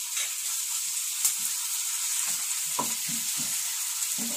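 Sliced onions and ginger-garlic paste sizzling in hot oil in a nonstick wok, with a steady high hiss. A wooden spatula stirs them, scraping and knocking softly against the pan a few times in the second half.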